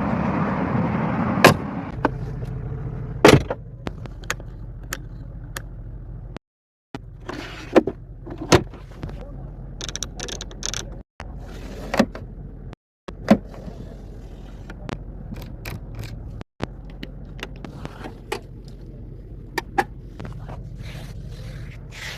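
Mercedes-AMG G 63 twin-turbo V8 engine, louder for the first two seconds and then running at a steady idle. Sharp clicks and knocks come through now and then, and the sound cuts out briefly a few times.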